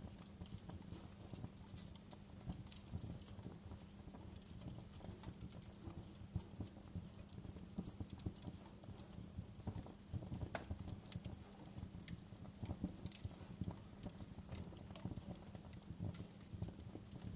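Wood fire crackling in a fireplace: irregular snaps and pops of varying strength over a low, steady rumble.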